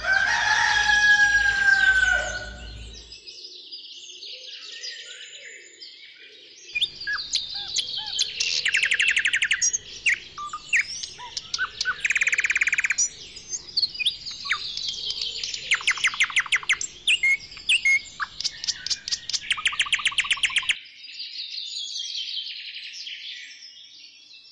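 Birds chirping and singing, with runs of fast, evenly repeated trilled notes in the middle and sliding whistled calls at the start.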